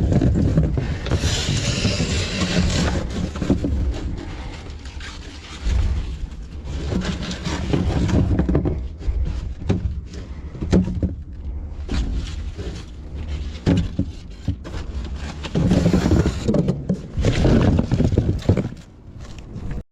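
Rummaging through a dumpster: scraping, rustling and knocking as items are moved and handled, over a steady low rumble.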